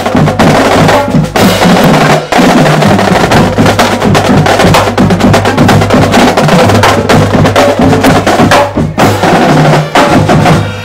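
Marching band drumline playing a loud street cadence: rapid snare, tenor and bass drum strokes.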